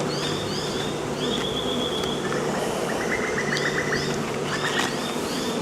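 Honey bees buzzing loudly at an open hive: a steady hum from a colony stirred up by the frames being pulled apart. Short high chirps repeat over the hum.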